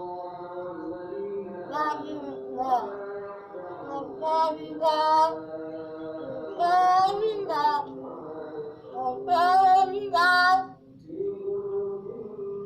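Hill myna giving a run of short, loud, warbling whistled calls, the loudest near the middle and around two thirds of the way in, over a steady background of sung or chanted music.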